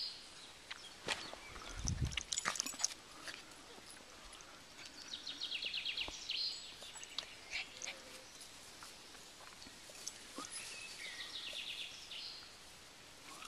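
A songbird singing a short, fast trilled song, repeated three times about six seconds apart. Scuffs and a low thump come in the first few seconds.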